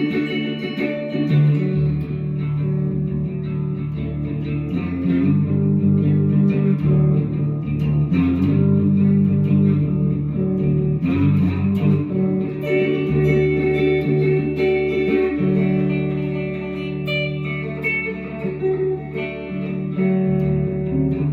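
Guitar music: plucked, likely electric guitar playing held notes over a moving bass line.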